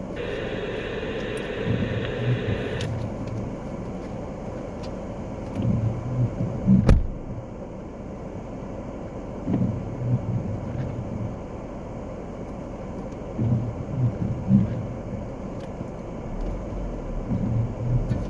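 Car running, heard from inside the cab: a steady low rumble with soft low swells about every four seconds and one sharp click about seven seconds in.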